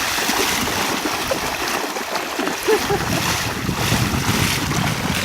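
Wind buffeting the microphone with a low, uneven rumble, over the steady wash of surf.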